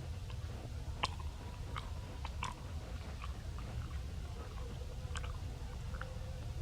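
Scattered small clicks and mouth smacks, like chewing, over a steady low rumble.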